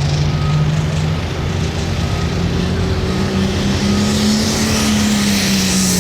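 Hot farm pulling tractor's diesel engine running loud and steady, its pitch stepping up about three seconds in as a rising hiss joins it. A faint reversing beeper sounds at intervals throughout.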